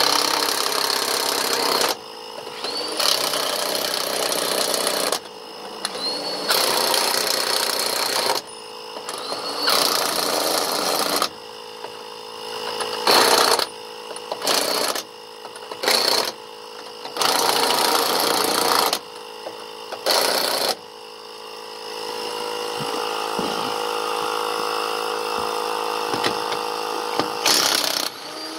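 Impact wrench running in repeated bursts of one to two seconds, driving lug nuts on a boat trailer wheel. For the last several seconds a steady motor hum takes over.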